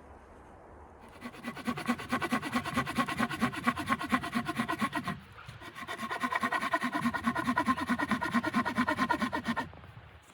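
A hand saw cutting wood with fast, even back-and-forth strokes, in two bouts with a short pause about five seconds in.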